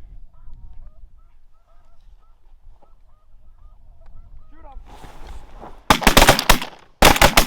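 Snow geese calling faintly with repeated short honks, then a volley of shotgun blasts in quick succession from several guns near the end, followed by a further couple of shots.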